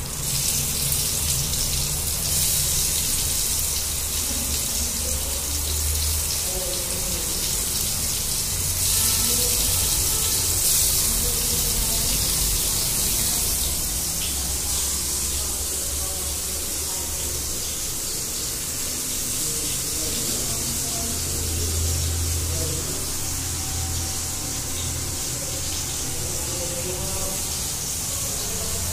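Spiced eggplant slices frying in hot oil in a pan, a steady sizzling hiss as more slices are laid in.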